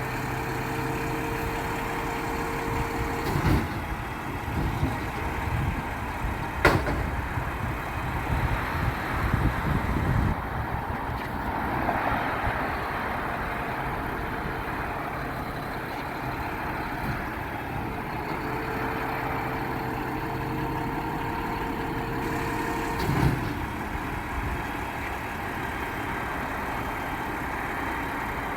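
Garbage truck's engine running steadily, with a steady whine that comes in twice and a few sharp knocks and clanks.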